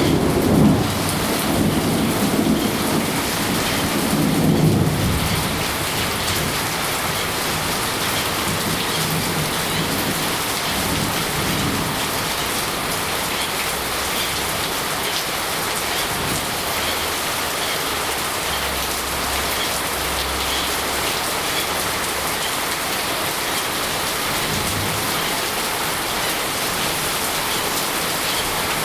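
Steady rain, with a low rumble of thunder in the first few seconds that dies away.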